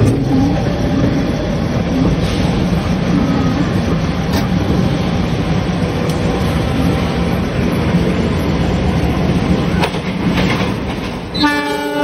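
Steady rumble and rattle of trains running on the rails as an oncoming train approaches and passes close alongside on the adjacent track. Near the end there is a short pitched tone lasting about half a second.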